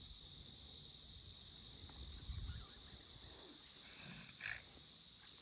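Faint steady insect chorus, like crickets, with a soft low rustle about two seconds in.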